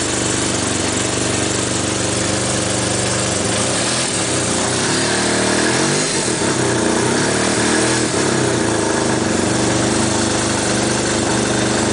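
1975 Suzuki RE5's single-rotor Wankel rotary engine running on choke just after a cold start, idling steadily, then rising and falling in revs for a few seconds about halfway through before settling again.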